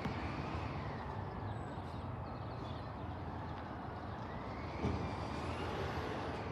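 Garbage truck engine running with a whine that rises and falls twice, and a single thump just under five seconds in.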